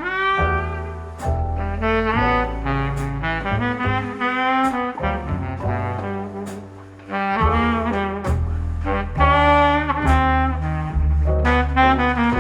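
Jazz music with a horn playing a melody line of separate notes over a low bass line, played back through a push-pull tube amplifier and semi open baffle speakers. The music dips briefly about midway, then comes back.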